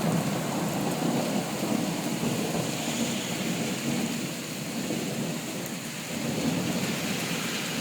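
Rain falling steadily with a low, rolling rumble of thunder that eases through the middle and swells again near the end.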